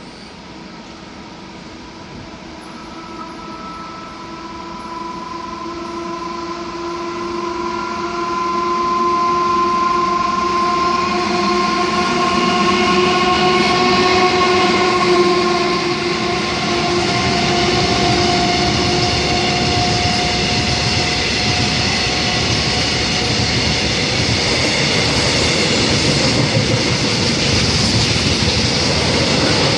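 A freight train passes at speed behind a Korail electric locomotive. First a whine of several steady tones swells as the locomotive approaches and goes by. Then the loud rumble and clatter of the tank and open wagons rolling over the rails runs on to the end.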